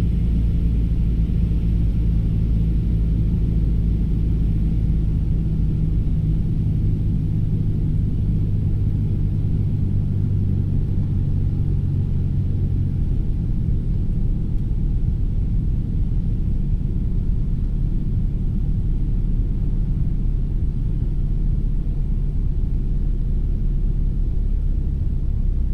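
Cessna 172's piston engine and airflow heard from inside the cockpit on final approach: a steady low drone with a rumble, its engine tones fading about halfway through, leaving the rumble.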